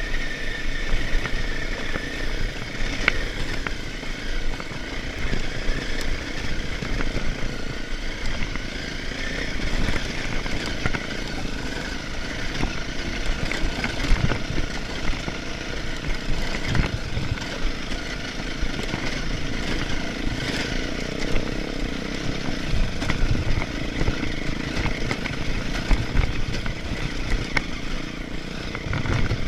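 Motorcycle engine running steadily as the bike is ridden, over an uneven low rumble.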